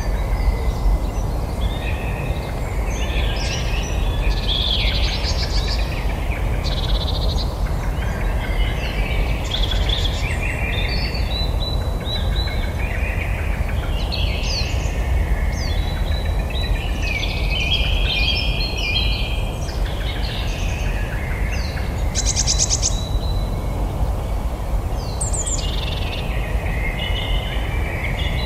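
Several small birds singing and chirping at once, a busy chorus of short trills and whistled phrases, over a steady low rumble.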